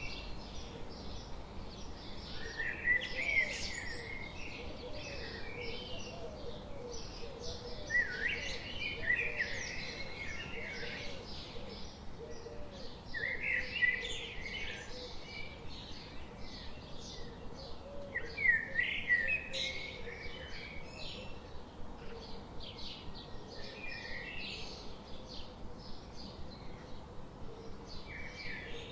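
Chicks of a small waterfowl peeping almost continuously in rapid short chirps, with louder bunches of calls about every five seconds.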